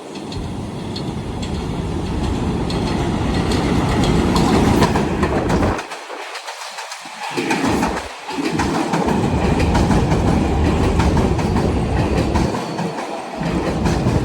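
An R188 subway train running through the station, its steel wheels clattering over the rail joints, the noise swelling toward the middle.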